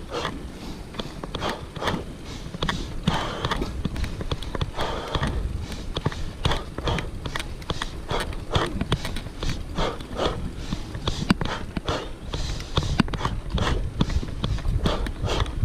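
A cyclist's heavy, rhythmic breathing, about two breaths a second, while climbing a steep hill, over a low rumble of wind on the microphone.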